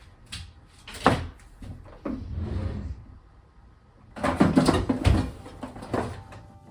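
A run of irregular knocks, bumps and rustling handling noises, with the loudest stretch about four to five seconds in. Soft sustained piano-like tones begin near the end.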